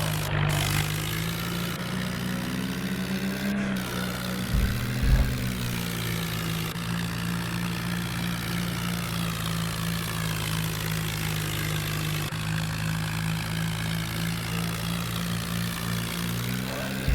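Farmtrac tractor's diesel engine running at a steady speed, its pitch dipping slightly now and then, with a couple of low thumps about five seconds in.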